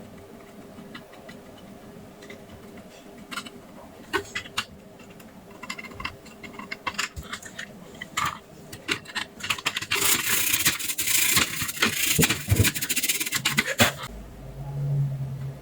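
Scattered small clicks and scratches of tools and a circuit board being handled on a workbench, building to a few seconds of dense scratching about ten seconds in, and a low steady hum that starts near the end.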